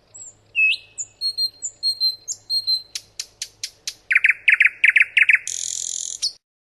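Nightingale singing: a few high whistled notes, then a run of sharp clicks, a fast repeated phrase and a buzzy rattle, cutting off suddenly near the end.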